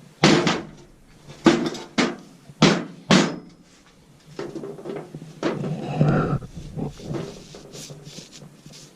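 Workshop knocks and clatter: about five sharp knocks in the first three and a half seconds, then a few seconds of scraping and rubbing with smaller knocks.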